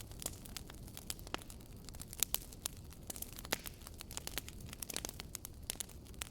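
Campfire crackling: wood burning with many sharp pops and snaps scattered irregularly over a low, steady rush of flame. The loudest pops come a little after two seconds in.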